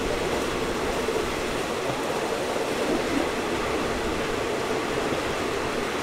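Passenger train running steadily along the track, heard from inside a second-class coach: an even rumble and hiss of wheels on rail with no distinct clicks.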